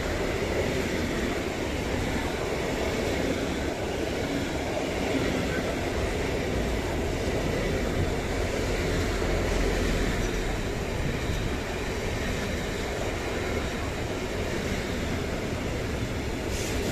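Long intermodal freight train of pocket wagons carrying semi-trailers passing close by, with a steady, unbroken rolling noise of steel wheels on the rails.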